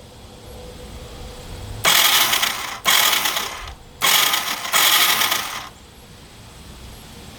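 Electric starter of a 1985 Yamaha 225DX three-wheeler cranking in four short bursts, a mechanical whirring and grinding, without the engine catching. The cam sprocket bolt has backed out and the sprocket has come partway off, so the cam chain just spins.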